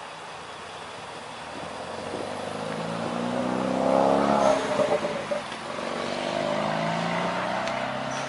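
A motor vehicle's engine passing by: it grows louder, peaks about four seconds in with its pitch gliding, then fades.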